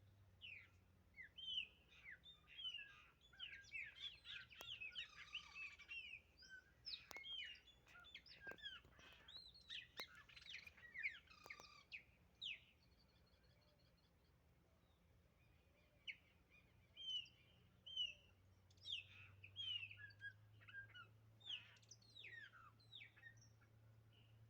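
Chopi blackbirds singing back and forth: rapid whistled and chirping notes, busiest in the first half, a lull of a few seconds in the middle, then more calls, over a faint steady low hum.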